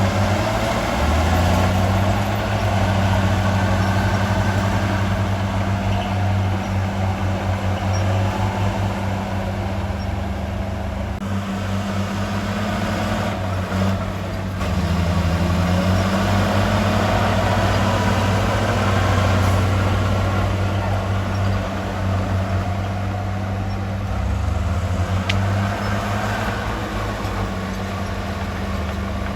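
Heavy diesel engine of earthmoving equipment running steadily under load, its pitch stepping and gliding up and down several times as the throttle and load change.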